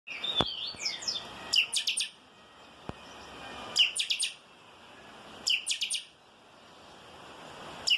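A chanchão singing the song pattern called 'calçada baixa': short phrases of rapid, high, clear notes, repeated about every two seconds. Two faint thuds come early and about three seconds in.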